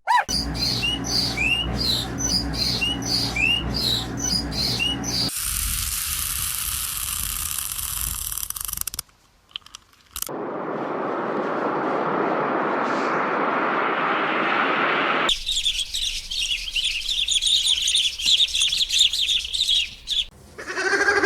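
Birds chirping in short, repeated rising calls, broken by stretches of steady hiss and rushing noise and a brief silent gap; dense high chirping returns near the end.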